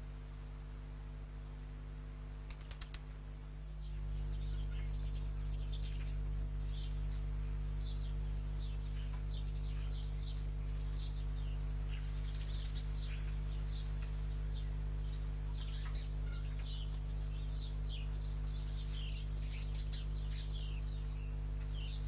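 Small garden birds chirping, with many short, quick calls overlapping, over a steady low hum that gets louder about four seconds in.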